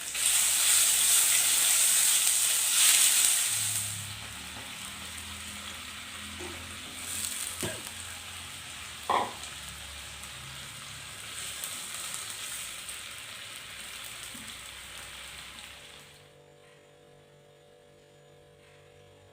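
Food frying in hot oil in a pan, sizzling loudly for the first few seconds and then settling to a steadier sizzle, with two short knocks in the middle. The sizzle drops away about three seconds before the end.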